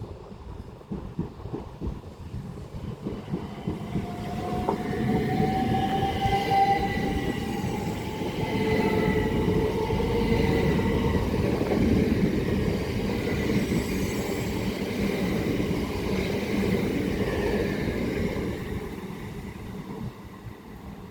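A pair of Southeastern Class 375 Electrostar electric multiple units passing through the station. The rumble of the wheels builds from about four seconds in, carries a whine that rises slowly in pitch, and fades away near the end.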